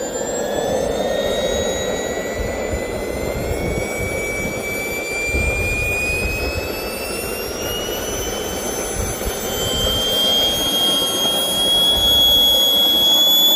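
Swiwin SW80B model jet turbine running just after ignition: a high whine climbing slowly and steadily in pitch as it spools up, over a loud rushing exhaust noise, and getting louder near the end. It is really loud.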